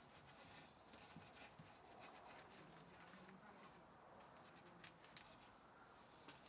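Near silence with faint rubbing and a few light clicks of hands handling parts.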